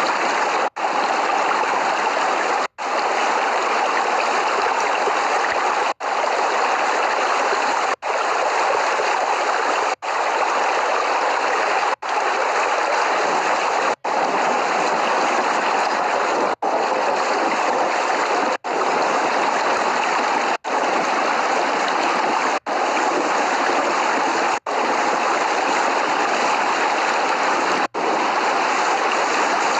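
Steady, dense rain noise with no thunder. It cuts out for an instant about every two seconds, like a short recording looped over and over.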